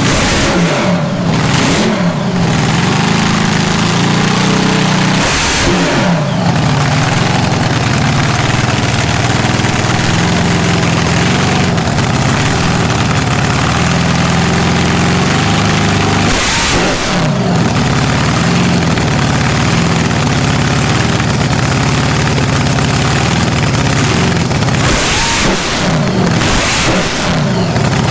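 Loud drag-racing car engine running at idle and revved about four times, each rev rising sharply and falling back to idle.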